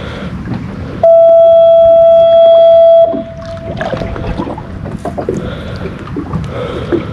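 Steady wind and water noise on an offshore fishing boat, cut through about a second in by a loud, steady single-pitched tone that holds for about two seconds and then fades off.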